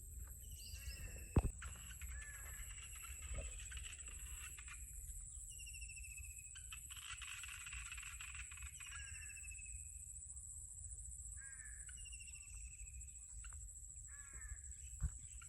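Outdoor rice-field soundscape: birds calling again and again, with harsh cawing and short falling whistles, over a steady high drone of insects. A low rumble runs underneath, and there are two sharp thumps, one early and one near the end.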